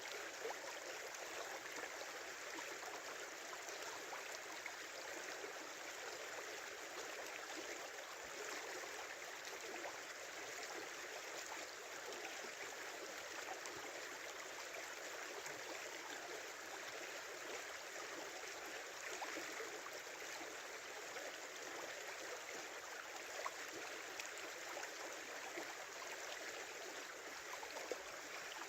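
Shallow river water flowing and babbling steadily.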